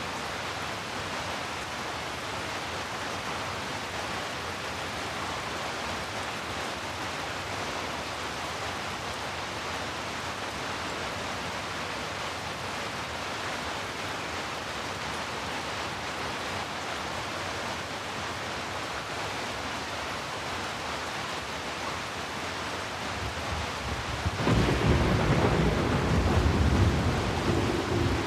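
Steady rain, an even hiss throughout. Near the end a low rumble of thunder builds and grows loud, then starts to fade.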